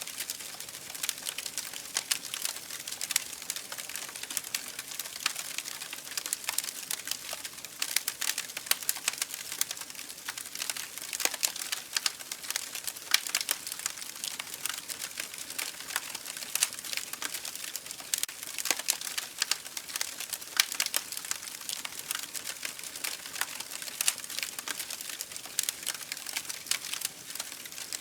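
Campfire burning, with a steady hiss and dense, irregular crackles and pops of burning wood.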